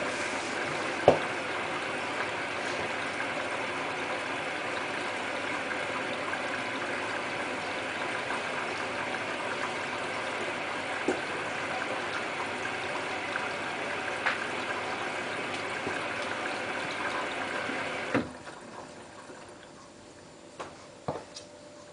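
Hotpoint Ultima WT960 washing machine filling, water running in through the detergent drawer in a steady rush. About eighteen seconds in the inflow cuts off suddenly as the fill valve closes, leaving a quieter background with a few faint clicks.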